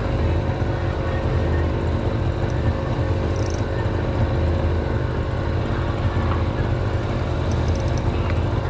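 An engine running steadily with a low, even drone. A few faint high ticks come about three and a half seconds in and again near the end.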